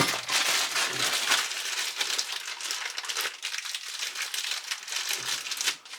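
Plastic or paper packaging being crinkled and handled, a dense irregular crackle that eases off near the end.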